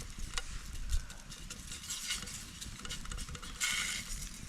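Food and cooking utensils being handled: scattered light clicks and scrapes, with a brief hiss near the end.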